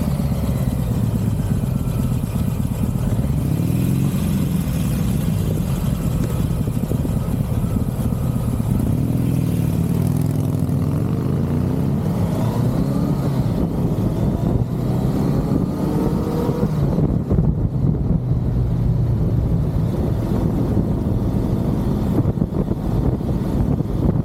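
Motorcycle running on the road with a steady low rumble. The engine pitch rises and falls several times as it accelerates and eases off.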